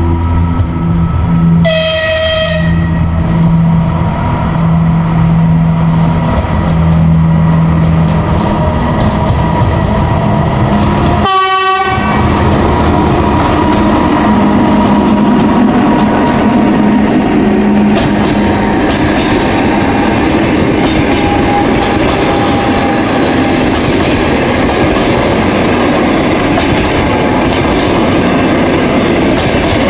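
EP2K electric locomotive giving one short horn blast about two seconds in as it approaches, then its passenger train passing close by: the loud rumble and rhythmic clatter of wheels on the rails as the locomotive and its coaches go past.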